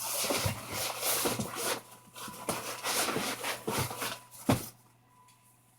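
Gear being handled and shifted: rustling and scraping in two stretches with small clicks, and a sharp knock a little after four seconds.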